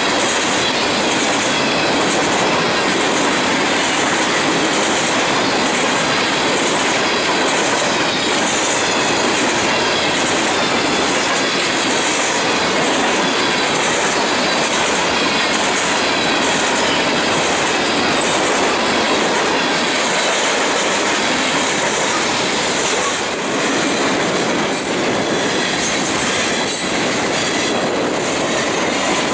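Freight train of steel gondola cars rolling past close by: a steady, loud run of rail-car noise, with the wheels clicking over rail joints in a regular rhythm.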